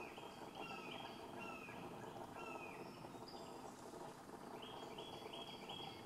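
A bird calling over and over in short falling notes, about two a second. The calls pause around the middle and resume in a quicker run near the end. Fainter, higher calls and a steady background hiss sit underneath.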